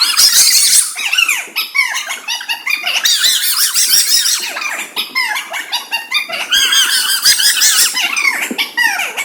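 Many young children's voices at once, shouting and squealing in high pitches without a break.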